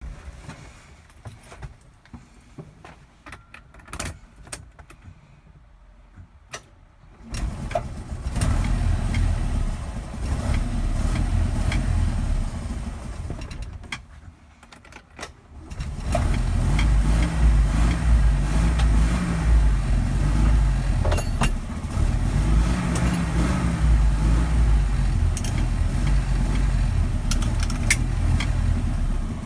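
Honda N360's small air-cooled two-cylinder engine started from cold: a few clicks of key and switches, then the engine catches about a quarter of the way in. It cuts out after several seconds, is started again just past the middle, and settles into a running idle whose pitch rises and falls a little.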